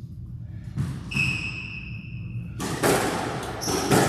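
Squash play on court: sharp ball knocks against the walls and floor, with high squeaks of rubber-soled court shoes on the wooden floor. One long squeak runs through the middle and shorter squeaks follow near the end.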